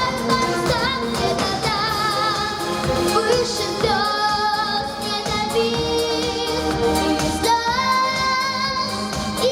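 A female vocalist singing a pop song over a backing track, holding long notes with vibrato, the last one held for about two seconds near the end.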